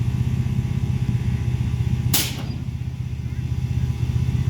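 Mini-truck's small engine idling with a steady, rapid low pulse, and a short sharp hiss of released air about two seconds in.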